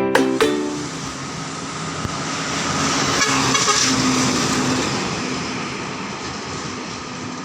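A truck driving past, its engine and tyre noise swelling to a peak about three to four seconds in and then slowly fading away.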